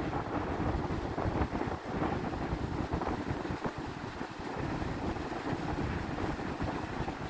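Wind buffeting the microphone: a rushing, gusting rumble without let-up.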